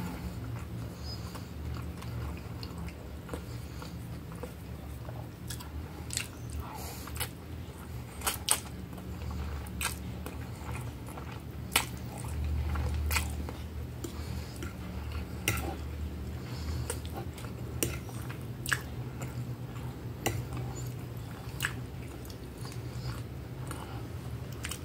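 Close-miked eating sounds of a person chewing a mouthful of spaghetti with strips of beef: scattered sharp, wet mouth clicks and smacks over a steady low hum.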